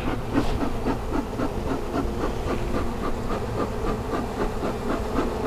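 Honeybees buzzing in a steady hum around an open hive, with a faint regular pulsing about three to four times a second.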